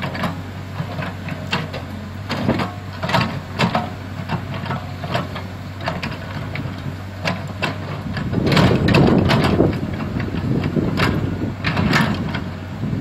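Komatsu PC75 hydraulic excavator running, its diesel engine humming steadily under frequent sharp knocks and clanks from the working machine. About two-thirds of the way through, the engine rises briefly in a louder, heavier stretch, as under hydraulic load.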